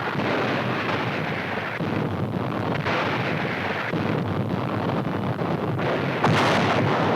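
Battle sounds on an old newsreel soundtrack: continuous gunfire and explosions, with a sharp, loud blast about six seconds in.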